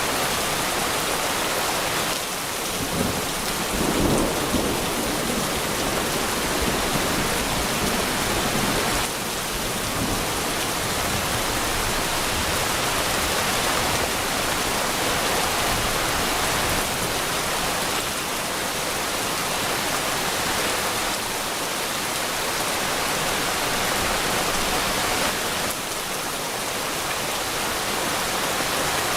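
Steady rain falling in a thunderstorm, with a brief low rumble of thunder about four seconds in.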